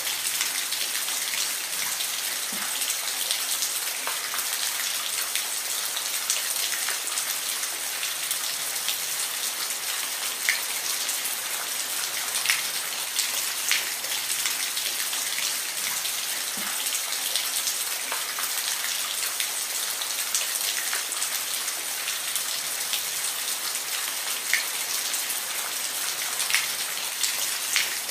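Steady rain falling, an even hiss with scattered single drops ticking now and then.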